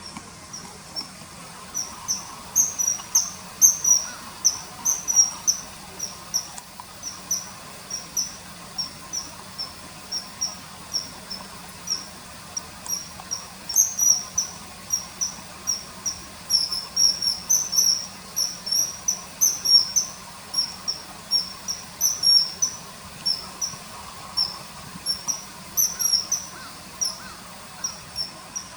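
Common kingfisher calling: a long, irregular run of short, shrill high-pitched whistled notes, several a second, often in quick pairs or clusters.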